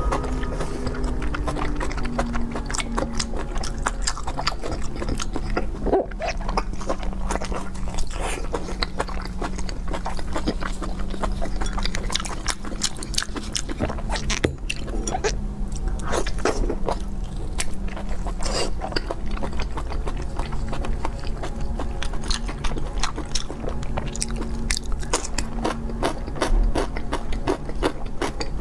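Close-miked chewing and biting of braised pork large intestine, many irregular sharp clicks, over a steady low hum.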